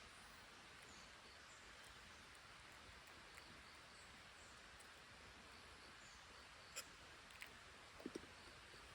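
Near silence: faint outdoor ambience with a steady hiss and a few faint high chirps. Sharp small clicks come about seven seconds in, and a couple of soft taps follow about a second later.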